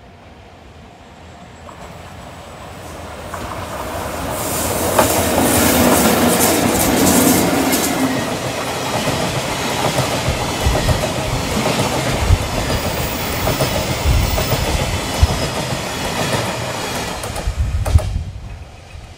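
EF64 electric locomotive (EF64 1042 leading) pulling a freight train of Taki tank wagons past at speed. The sound builds as the locomotive approaches and is loudest as it goes by, about five to eight seconds in. Then comes a steady clickety-clack of the wagons' wheels over the rail joints, with a couple of sharp clanks near the end as the last wagons pass.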